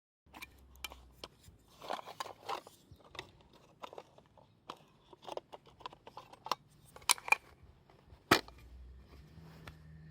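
Irregular sharp clicks, snips and light rustling of things being handled up close, with the loudest single sharp knock about eight seconds in.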